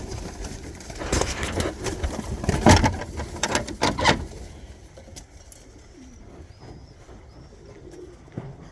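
Tippler pigeons in the loft cooing and calling. Loud rustling and clattering fill the first four seconds, then it goes quieter, with faint short high calls.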